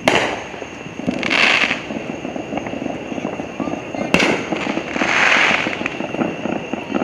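Fireworks going off all around: two sharp bangs about four seconds apart, two short hissing bursts, and near-constant smaller popping of firecrackers in between.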